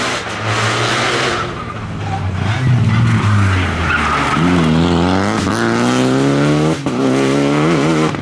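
Rally car engine accelerating hard, its pitch climbing steadily, breaking sharply at an upshift about seven seconds in, then climbing again.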